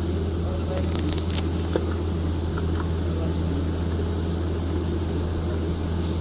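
Steady low hum of running factory machinery, with a few faint clicks about a second in.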